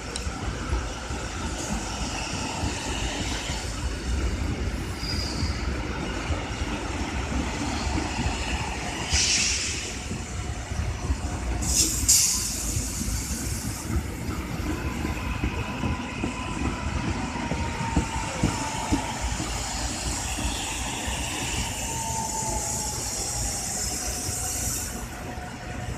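Korail 341000-series electric commuter train running slowly past into the station, with a steady low rumble of wheels on the rails. Two short hissing bursts come about nine and twelve seconds in. Later a faint whine falls in pitch as the train slows to a stop.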